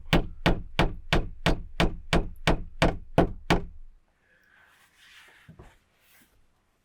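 Rapid, even series of hard knocks, about three a second, each with a short low ring, stopping about four seconds in; faint rustling and a couple of soft knocks follow.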